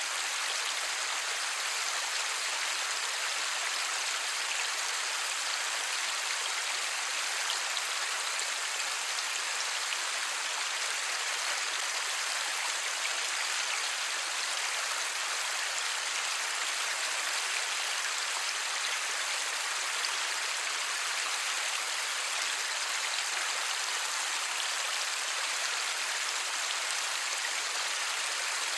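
Steady light rain falling, a dense even patter without thunder.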